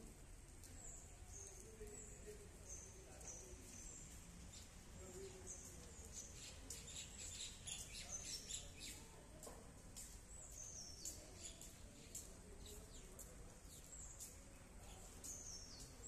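Faint songbird chirps: short, high, falling notes about once a second, with a busier flurry of calls in the middle and a few more falling notes near the end, over faint low background rumble.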